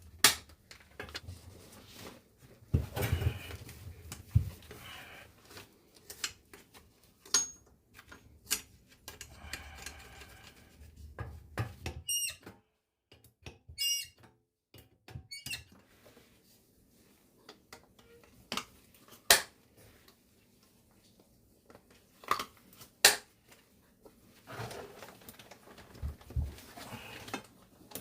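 Irregular sharp clicks, knocks and clinks of hand work on metal plumbing fittings, with a few short high squeaks about halfway through.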